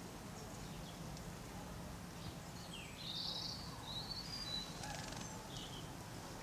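Outdoor ambience with a steady low hum, and a few short high bird chirps from about a third of the way in to near the end.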